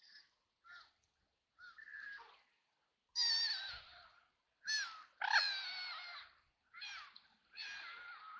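Ducks quacking: a few short, quiet quacks, then from about three seconds in a run of about five louder, longer quacks.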